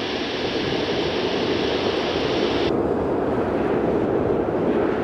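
Jet airliner engine noise building steadily as the aircraft nears, a dense low rushing rumble. A separate high hiss runs over it for the first two and a half seconds and then cuts off suddenly.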